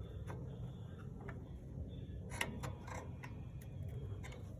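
Scattered light metallic clicks and taps of drum brake hardware being handled, about six in all, the sharpest about two and a half seconds in, over a low steady background hum.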